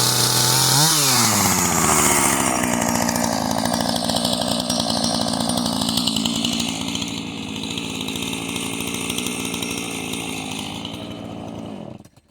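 Husqvarna chainsaw running at high revs. About a second in the pitch drops sharply and it keeps running at lower revs, then it cuts off abruptly near the end.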